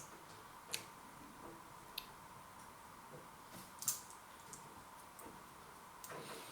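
Faint small clicks and soft wet sounds, three of them sharper, over a faint steady hum.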